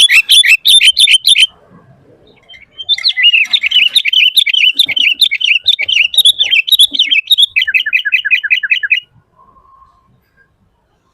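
Sooty-headed bulbul singing loudly. A fast series of repeated chirps lasts about a second and a half, then after a short pause comes a long run of rapid, varied chattering notes. The run ends in a quick string of falling notes and stops about nine seconds in.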